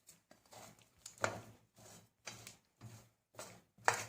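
A spoon stirring and scraping spiced cauliflower pieces in a cooking dish, a short scrape about every half second, with a sharper knock near the end.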